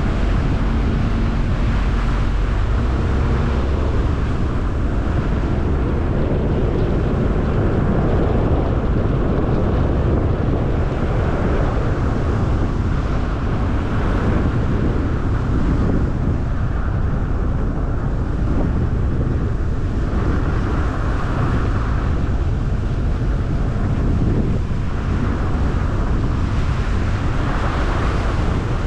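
A car driving at steady speed: constant road and tyre noise with wind buffeting the camera's microphone, heaviest at the low end.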